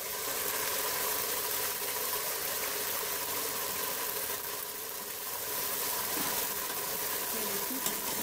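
Ketchup sizzling steadily in hot oil with browned garlic in an aluminium pot, a constant hiss with a faint hum underneath.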